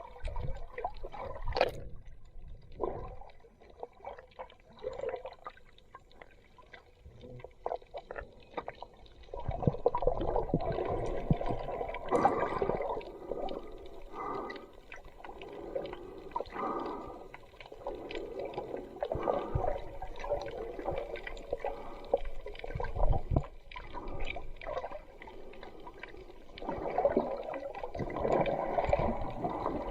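Water gurgling and sloshing around a camera in the sea, in irregular surges with scattered small clicks. It is quieter for the first several seconds and grows louder and busier from about nine seconds in.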